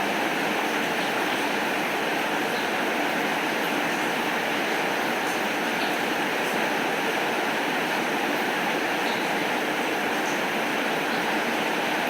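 Steady heavy rain falling, an even hiss with a few faint small ticks of drops.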